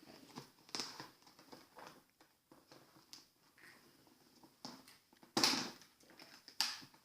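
Plastic toy packaging being handled, with scattered rustles and clicks as the ties are worked loose. The loudest come about five and a half seconds in and again a second later.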